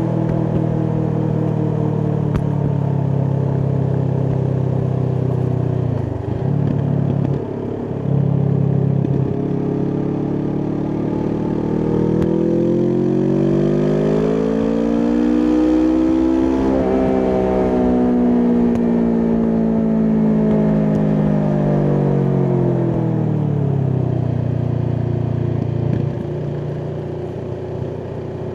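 Kawasaki Vulcan S 649 cc parallel-twin engine with an Arrow aftermarket exhaust, running while riding. The steady note drops out briefly twice a little after a quarter of the way in, as the throttle is eased off. Then the engine pitch climbs smoothly for several seconds, holds, and falls back as the bike slows.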